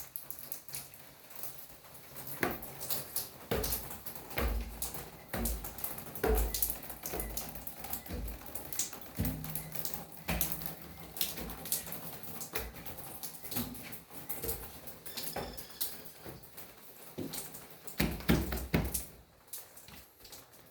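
Irregular sharp taps and clicks with low thuds among them, heaviest in the first third and again near the end.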